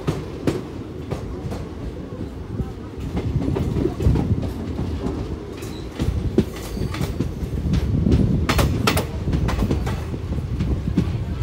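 Passenger train running, heard from on board: a steady rumble of wheels on rail, with irregular clicks and knocks. It grows louder about a third of the way in, and again near the end.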